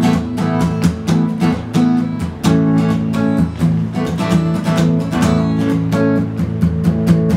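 Acoustic guitar strummed in a steady rhythm: an instrumental interlude of the song's chords between sung verses.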